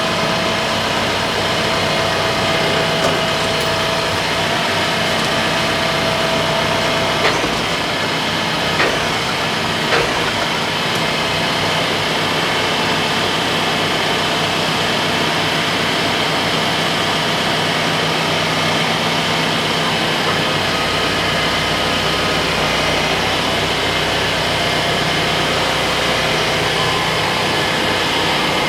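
Large TYM farm tractor's diesel engine running steadily, with a few brief knocks between about seven and ten seconds in.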